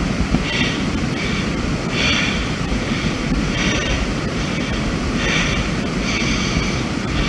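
Wind buffeting a handheld camera's microphone on an exposed cliff trail: a loud, uneven rumble, with a soft hiss rising and falling about once a second.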